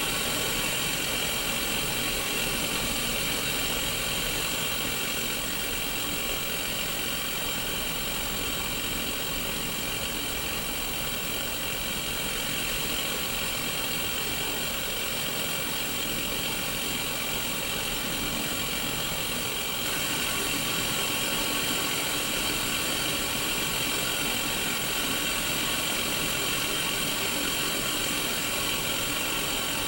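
Static hiss from the speaker of a Sony Mega Watchman black-and-white portable CRT TV tuned to no station: steady white noise, becoming slightly louder about two-thirds of the way through.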